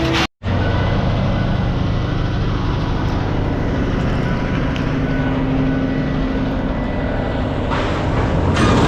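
Heavy machinery engine running steadily, with a faint steady whine above the drone. The sound drops out abruptly for a moment just after the start, then resumes.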